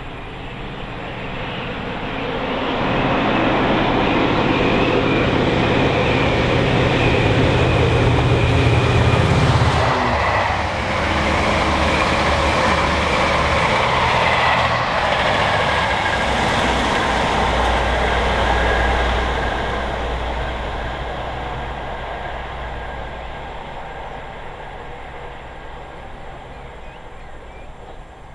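Class 67 diesel-electric locomotives hauling a passenger train past at speed. The sound builds over the first few seconds, holds with a low engine hum and rumbling wheels, then fades steadily as the train recedes.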